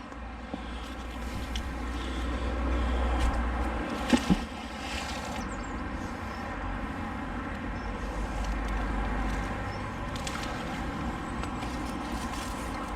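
Steady outdoor rumble of wind buffeting the microphone over the rush of a swollen, fast-flowing river, swelling twice. There is a short knock about four seconds in.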